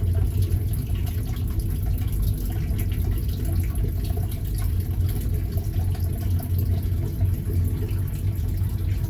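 Turtle-tank filter running: water siphoning and trickling back into the tank with a constant splashing patter over a steady low hum.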